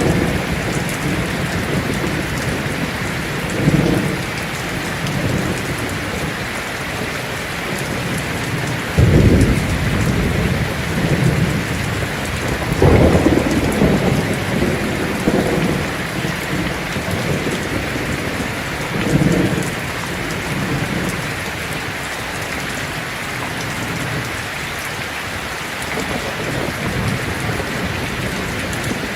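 Heavy rain falling on a tin roof in a steady hiss, with thunder rumbling several times; the loudest rolls come about nine and thirteen seconds in.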